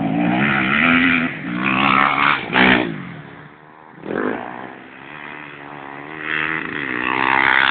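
Four-stroke single-cylinder dirt bike engine revving on a motocross track, pitch rising and falling with the throttle. It fades to a lower, quieter note about three seconds in, then builds again and is loud near the end.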